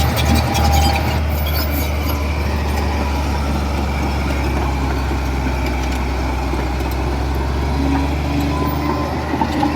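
Heavy diesel engine of a bulldozer running steadily under load, with a short burst of metallic clatter about a second in.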